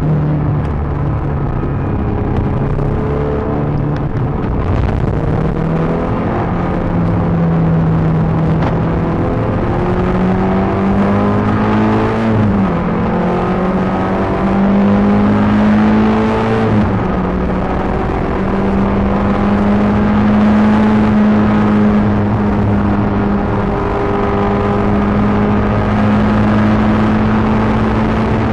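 Peugeot 306 GTi-6's 2.0-litre four-cylinder engine driven hard on a race track. The revs climb through the first half, dip briefly twice near the middle, then hold steady and high.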